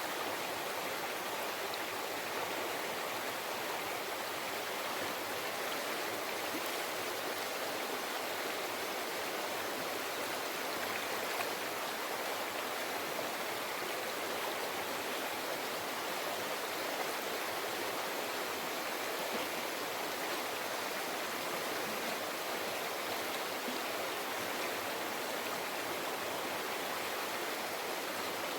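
A river flowing steadily over rocks, a continuous rush of water with a babbling texture.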